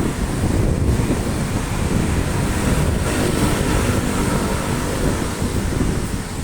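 Heavy rain falling in a steady hiss, with wind buffeting the microphone in a low rumble. A faint hum rises and fades about three to four seconds in.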